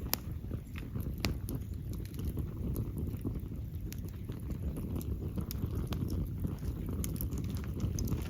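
Wood fire burning with a steady low roar and scattered sharp crackles and pops from the burning wood.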